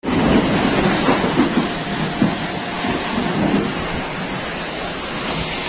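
Heavy rain with hail falling: a dense, steady hiss with many scattered knocks of hailstones striking, thickest in the first few seconds.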